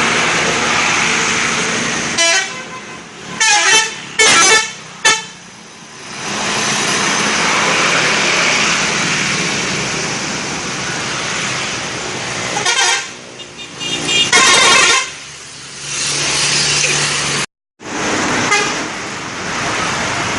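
Vehicle horns honking in short clusters over steady road-traffic noise.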